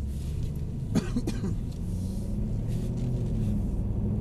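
Mercedes SL63 AMG's V8 engine running as the car drives on, heard inside the cabin as a steady low rumble, its note growing stronger from about two seconds in. A short, sharp, cough-like sound comes about a second in.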